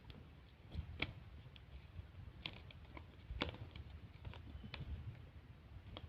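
Scattered light clicks and taps, irregularly spaced, of paper being handled and creased by hand on a table, over a faint low rumble.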